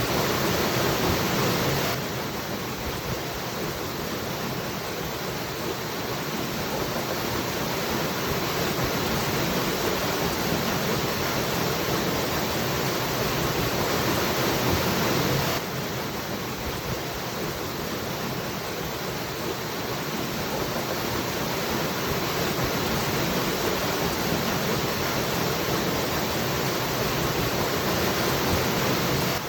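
Waterfall rushing steadily, a dense even roar of falling water. The level drops abruptly twice, about 14 s apart, then slowly builds again, like a repeating loop.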